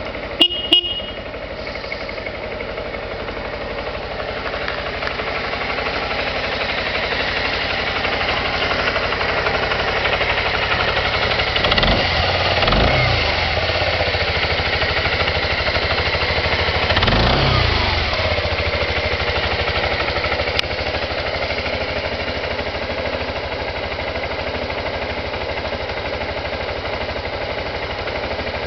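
Suzuki Skywave 250 FI scooter's single-cylinder engine idling steadily, revved briefly twice, about twelve and seventeen seconds in, each time rising and falling back to idle. A couple of sharp clicks sound right at the start.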